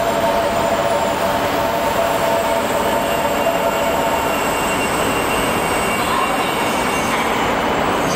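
Shinkansen train running at the station: a loud, steady rush of wheels and running gear, with a whine of several close tones that fades out about three seconds in.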